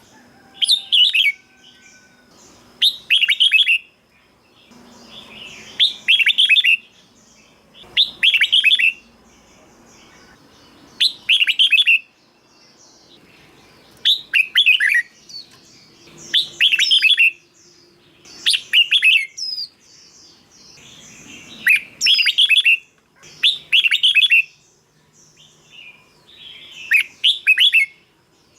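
Red-whiskered bulbul singing: short, loud, warbling phrases repeated every two to three seconds.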